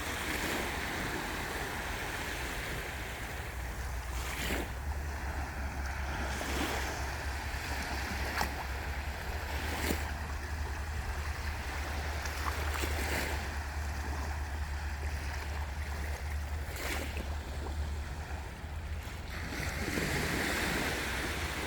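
Sea waves washing onto a beach, a steady noisy surf that swells near the end, with wind buffeting the microphone as a constant low rumble. A few short clicks stand out now and then.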